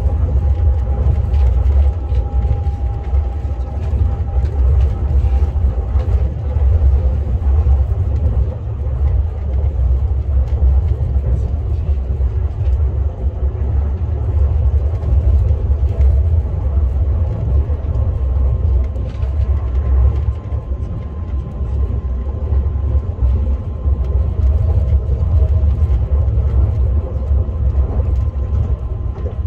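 KTX high-speed train running, a steady low rumble with a faint thin whine coming and going above it.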